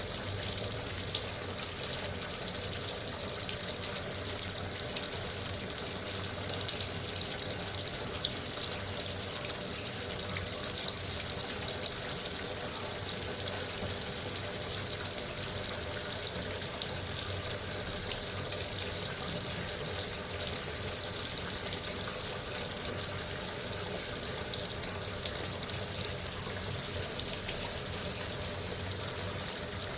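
Water running steadily into a Sharp washing machine as it fills.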